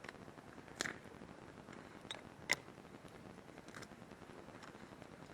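Campfire of gathered firewood crackling, with a handful of sharp pops at irregular intervals over a steady hiss, the loudest about two and a half seconds in.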